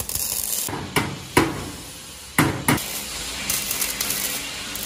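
A hammer knocking on metal, about five sharp blows in the first three seconds, over a steady hiss.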